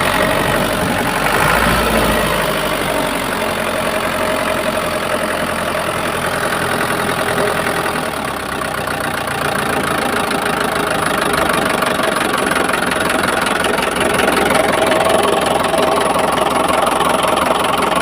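An old engine running steadily at idle.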